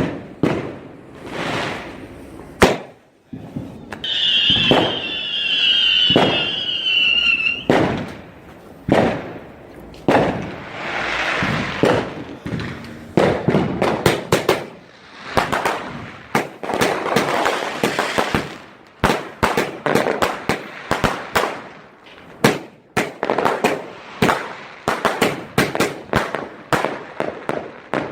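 Fireworks going off: repeated bangs and crackling bursts, with a falling whistle from about four to seven and a half seconds in, and quick-fire bangs and crackle packed closely through the second half.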